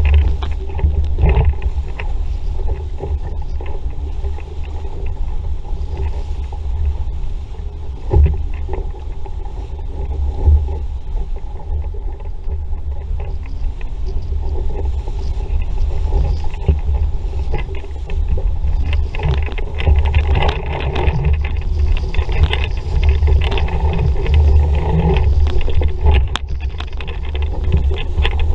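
Wind buffeting the microphone in a steady low rumble, over water rushing and splashing along the hull of an RS Vareo dinghy under sail, with occasional small knocks.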